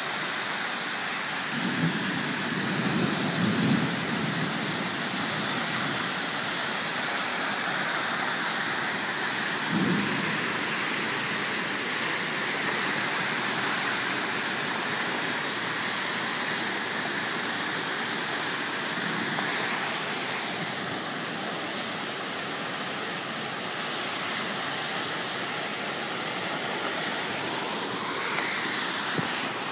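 Heavy rain pouring steadily during a thunderstorm, with short low rumbles about two to four seconds in and again around ten seconds.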